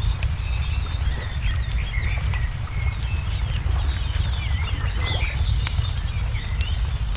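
Wood fire crackling with scattered sharp pops, while many small birds chirp and twitter, over a steady low rumble.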